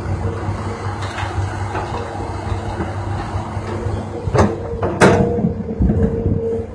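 Heavy diesel earthmoving machinery running steadily, with a constant whine over a low rumble, and two sharp metal clanks about four and a half and five seconds in.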